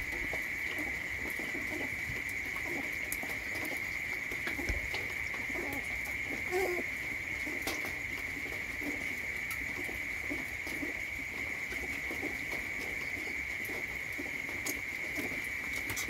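Doves cooing now and then, low and soft, over a steady high-pitched drone.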